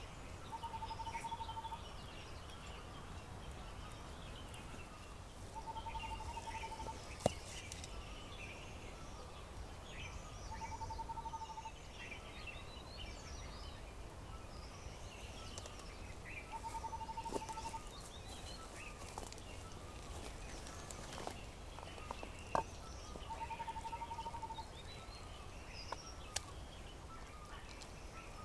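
Outdoor birdsong: scattered short chirps from several birds, with a low, rapidly pulsed trill of about a second repeated every five to six seconds, and a few sharp clicks.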